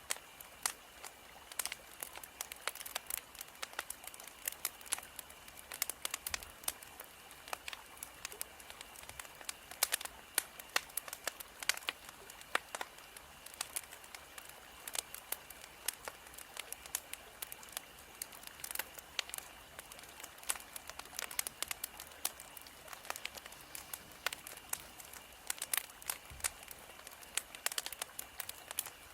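Wood fire crackling: a steady hiss with dense, irregular sharp pops and snaps.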